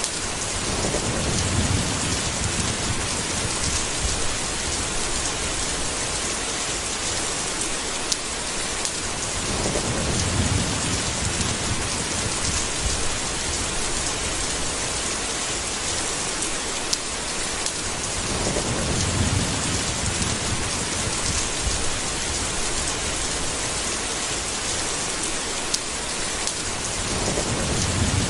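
Steady heavy rain with low rolls of thunder, four of them, about every nine seconds.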